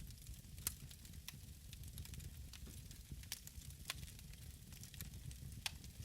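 Wood fire burning in a fireplace: a steady low rumble with irregular crackles and pops, several sharper ones standing out.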